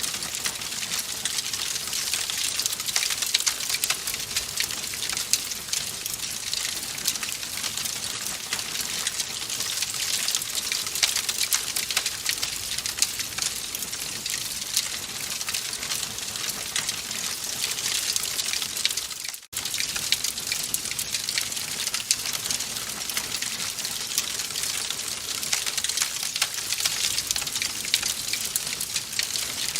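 Wood fire in a fireplace crackling steadily, a dense stream of small pops and snaps over a hiss. There is a split-second dip in level about two-thirds of the way through.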